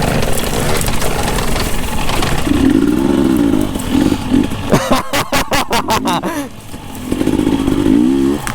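Husqvarna TE 250i two-stroke enduro motorcycle engine revving up and down on the throttle over a steady rush of wind. A run of quick sharp knocks sits in the middle.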